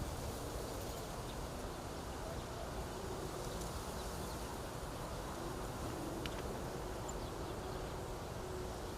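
Wind blowing steadily through a stand of reeds: an even rustling hiss with a low rumble underneath.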